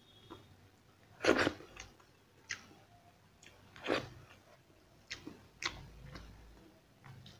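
Close-miked chewing and lip smacks of a man eating rice and curry by hand: about six sharp, wet mouth sounds spread through, the loudest about a second in and near four seconds in.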